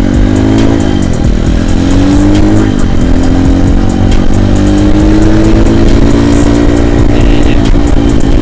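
Avantis 150 Classic pit bike's single-cylinder four-stroke engine accelerating through the gears: the revs rise, drop sharply at a shift about a second in and again near three seconds, then climb slowly and hold.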